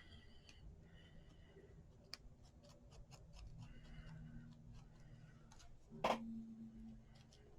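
Faint, scattered clicks and light taps of hand paper-crafting work at a desk, with one louder knock about six seconds in.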